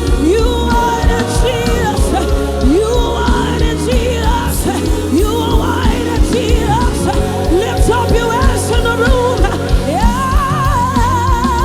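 Live gospel worship band playing over a steady beat, with a melodic line sliding between notes and, near the end, one long held note with vibrato.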